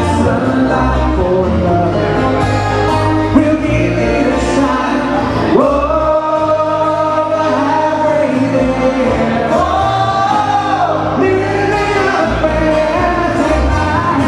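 Live Hawaiian music: sung vocals with held notes over band accompaniment and a steady bass line.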